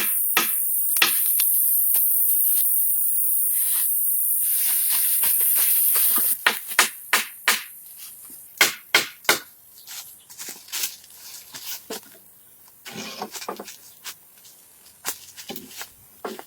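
Sharp strikes of hand tools on wood, chopping or knocking at a steady beat over a high, steady insect buzz. About six seconds in the buzz cuts off, and the strikes become sparser and irregular.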